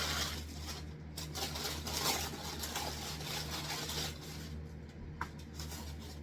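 Rustling and crinkling of paper fast-food packaging as the food is handled, with a few small clicks and taps.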